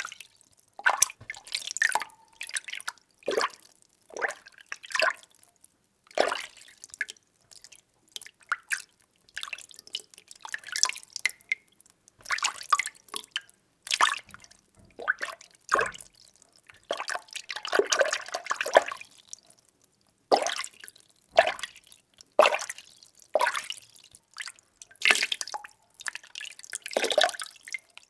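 Water being stirred: irregular sloshing, splashy strokes about once a second, with a busier spell of churning about two-thirds of the way through.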